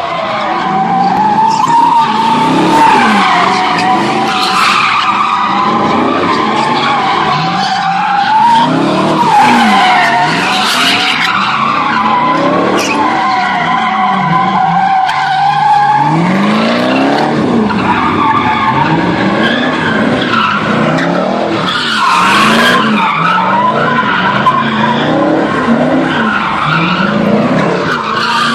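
Muscle car spinning its tyres: a continuous tyre squeal over an engine that revs up and down again and again. The squeal is a steady high tone through the first half, then becomes rougher.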